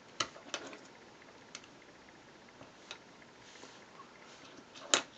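Tiny Nanoblock plastic bricks clicking as they are handled and pressed onto the model: a few scattered sharp clicks, the loudest near the end.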